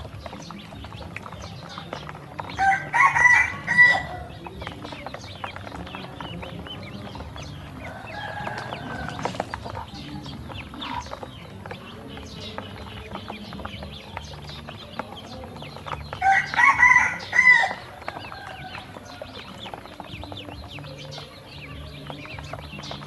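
A rooster crowing twice, once about three seconds in and again about two-thirds of the way through, with a fainter call between. Underneath runs a constant patter of small clicks from ducklings feeding.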